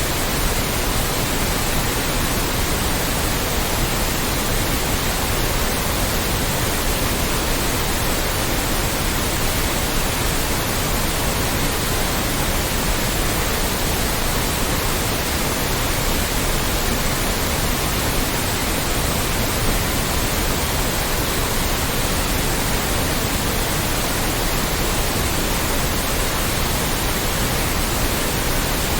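Loud, steady white noise: an even, unchanging hiss across the whole range of pitch, with no other sound.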